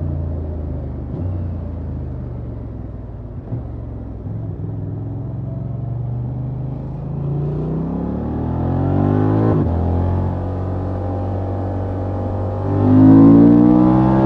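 Honda XL750 Transalp's parallel-twin engine with stock exhaust, heard from the rider's seat while riding. It eases off and runs softer for a few seconds, then climbs in revs. The revs drop suddenly about ten seconds in, then rise loudly again near the end.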